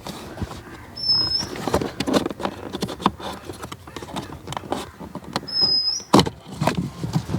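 Plastic clicks, knocks and rustling as the cabin air filter is pulled out of its housing under a Volkswagen's dashboard, with a sharp knock about six seconds in. Two short high squeaks come about a second in and again near five and a half seconds.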